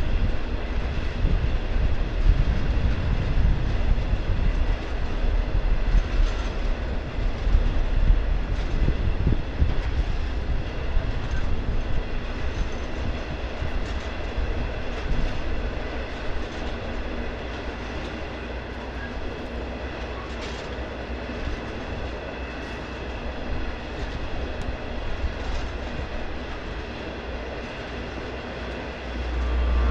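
Black Mesa & Lake Powell electric coal train rolling past on the rails, a steady run of wheel and rail noise. It is loudest in the first half and eases off gradually after that.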